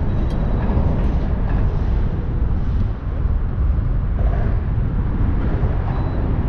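Wind buffeting the camera's microphone: a loud, steady low rumble, with a brief lull about three seconds in.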